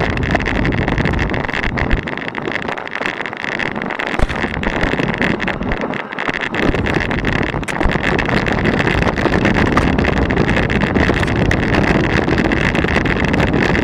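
Mountain bike rattling down a rocky trail: tyres crunching over loose stones, with a constant clatter of sharp knocks as the bike takes the rocks, and wind rushing across the action camera's microphone.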